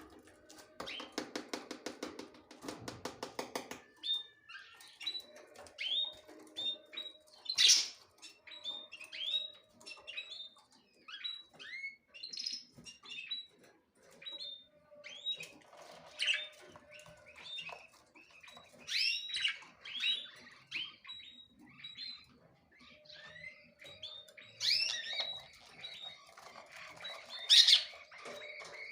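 Small birds chirping with many quick, short, high calls, the loudest about a third of the way in and near the end. The first few seconds are covered by a rapid buzzy rattle.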